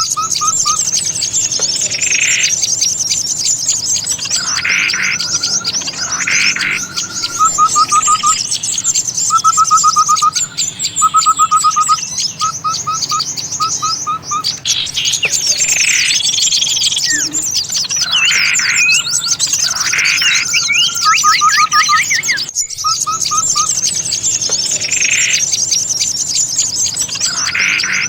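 Bird-lure track: a noisy chorus of many small songbirds chirping and calling at once, with short repeated trills and quick rising whistles. The recording cuts out for a moment about 23 seconds in and starts over, a loop.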